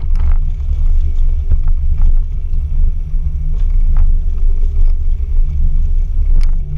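Toyota Cresta heard from inside the cabin while driving on ice: a loud, steady low rumble of engine and drivetrain, with a few sharp knocks.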